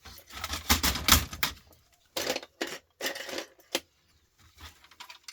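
Irregular clicking and clattering of small metal and plastic parts as an electronic unit is worked apart by hand, busiest in the first second and a half, then a few short rattles and a sharp click.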